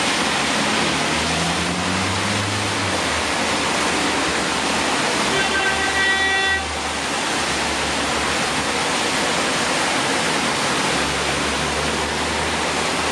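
Steady rain hissing on a city street, with the low rumble of traffic driving through the wet intersection. About five seconds in, a pitched tone sounds for a little over a second.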